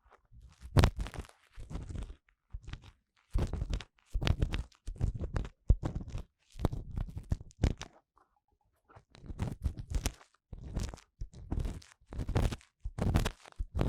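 Ear-cleaning tool scraping and rubbing inside the silicone ear of a 3Dio binaural microphone: close, crackly scratching strokes in irregular bursts, with a short pause about eight seconds in.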